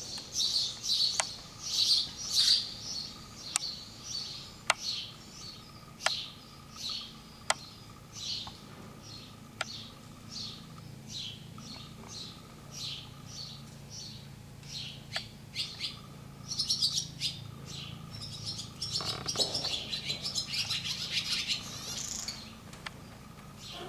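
Small birds chirping over and over in short, high-pitched calls, busiest for a few seconds near the end, with a few sharp clicks and a faint steady hum underneath.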